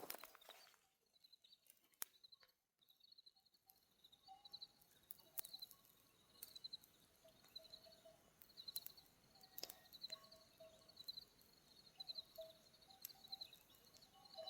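Near silence: faint outdoor ambience with small creatures chirping in short, high, pulsed bursts about once a second, plus a few lower short notes.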